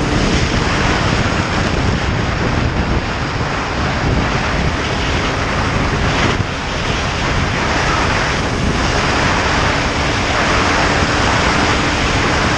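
Wind rushing over the microphone on a moving motorcycle, with the engine running steadily underneath; the rush dips briefly about six seconds in.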